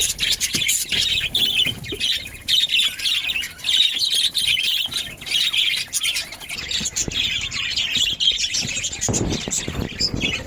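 Budgies chattering and chirping without pause, quick overlapping squawky calls. About nine seconds in a short, dull rustling knock sounds under the chatter.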